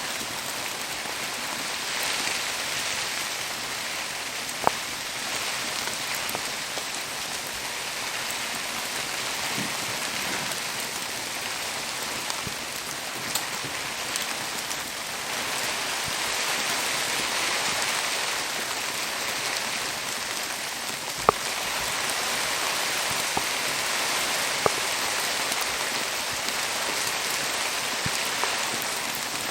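Steady rain hiss, with a few sharp clicks scattered through it, about four in all.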